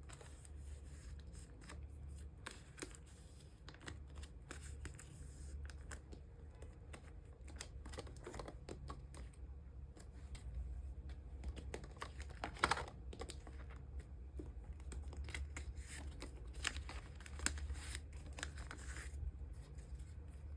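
Photocards being slid into clear plastic card sleeves and binder pockets, with plastic rustling and sliding, and small irregular taps and clicks as cards and sleeves are handled. Underneath runs a steady low hum.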